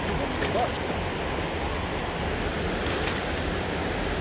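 Steady rush of water pouring over a creek spillway, with wind buffeting the microphone.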